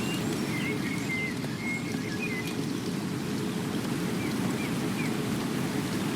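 Steady rain with scattered drop ticks, and a bird calling over it in short high chirps and whistles, mostly in the first half.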